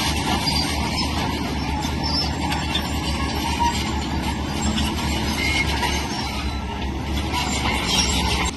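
Shantui crawler bulldozer's diesel engine running, with steady metallic clanking and squealing from its steel tracks.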